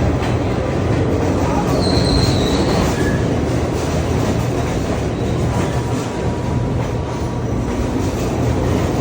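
R46 subway train running into the station, a steady loud rumble of wheels on track, with a short high wheel squeal about two seconds in.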